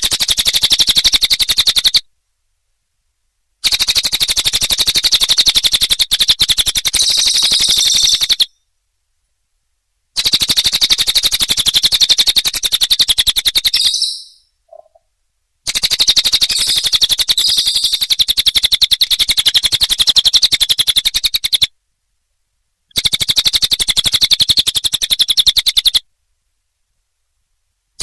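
Recorded cililin bird song played as a trapping lure: fast, rattling trills of high notes in bursts of a few seconds, each cut off abruptly by a short silent gap.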